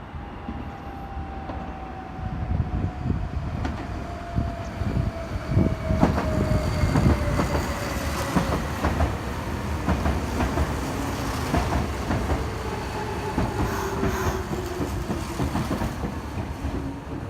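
Electric commuter train running by on the Meitetsu Toyota Line: wheels clacking over rail joints under a steady rumble, with a thin motor whine that falls slowly in pitch.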